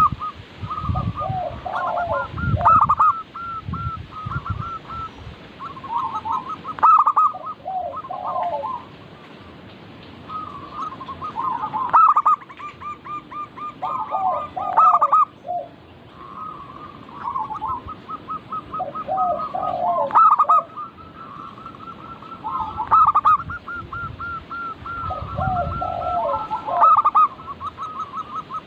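Zebra dove (perkutut) cooing: phrases of quick, bubbling, rolling coos repeated every few seconds, with a low rumble now and then in the background.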